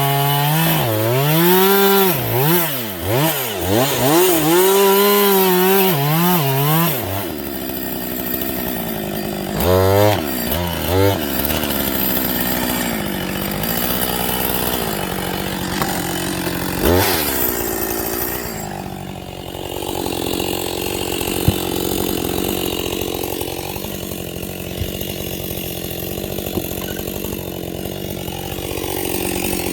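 Husqvarna 562 XP two-stroke chainsaw revving up and down repeatedly for about the first seven seconds, then running under load as it cuts into wood, with a few short revs along the way and a steadier drone in the second half. The chain is dull, and this is the sound of a saw that should have had its chain replaced.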